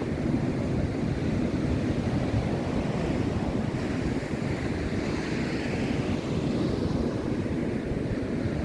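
Steady sound of ocean surf, with wind buffeting the microphone.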